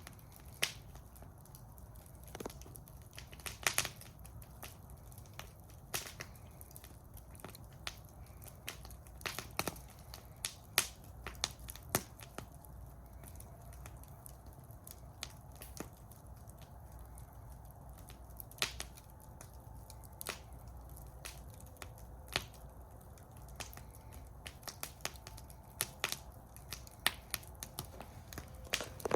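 Wood fire burning in a fire bowl, crackling and popping with sharp irregular snaps over a low steady rumble of the flames.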